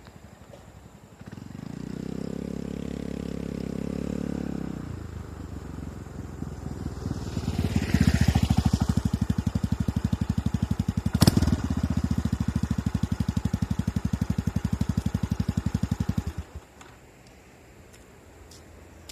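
Yamaha Majesty 250 scooter's single-cylinder engine running through aftermarket dual mufflers. It first gives a steady hum, then a louder even pulsing exhaust beat with a sharp click partway through, and it cuts off abruptly about 16 seconds in.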